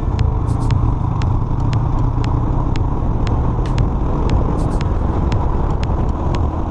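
Motorcycle running at speed, a steady engine and wind rumble, with the light beat of background music ticking over it about twice a second.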